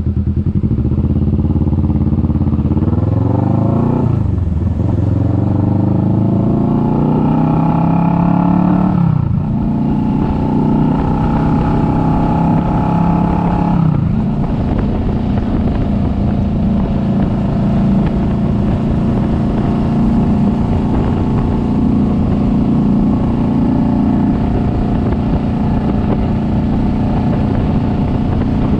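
Kawasaki Vulcan S 650's parallel-twin engine pulling away: its pitch climbs and drops sharply three times, about 4, 9 and 14 seconds in, as the rider shifts up through the gears, then it runs at a steady cruising speed.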